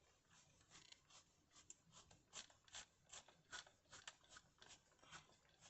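Faint, irregular small clicks and scratches, about three or four a second, of little metal motor screws with washers being handled and threaded in by hand.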